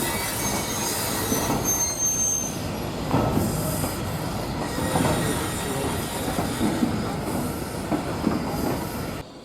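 Train rolling past on the track: wheels squealing high over a steady rumble, with repeated rail-joint clicks. The sound cuts off suddenly near the end.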